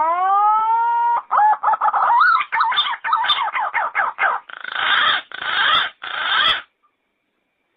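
Yellow-footed green pigeon calling: a long rising whistle, then a quick run of warbling notes and three longer, rougher notes, stopping abruptly near the end.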